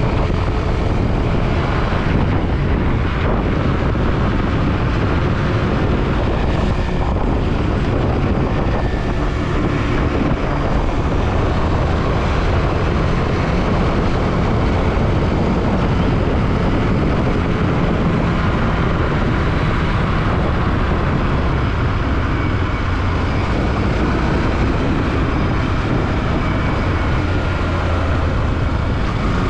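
Yamaha WR155R single-cylinder motorcycle engine running steadily under way, mixed with heavy wind rush on the microphone.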